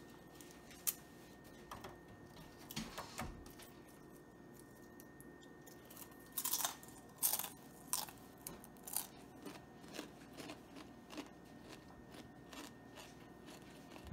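Crisp crunching of baked, taco-seasoned salami chips being bitten and chewed, in short scattered crunches that come thickest about six to nine seconds in.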